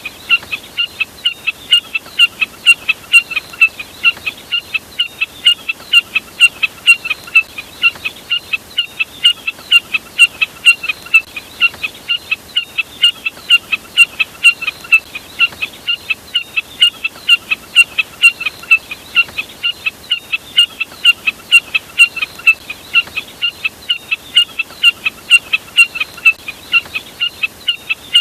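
Jack snipe calls played as a bird-lure recording: short sharp notes repeated about three times a second, on and on without a pause.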